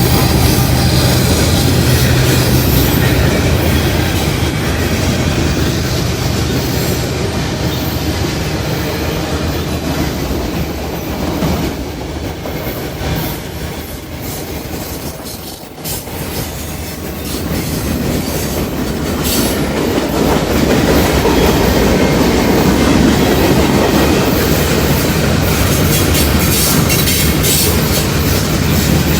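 Freight cars of a long mixed-manifest train rolling past on the rails, a continuous rumble that eases somewhat about halfway through and then grows louder again.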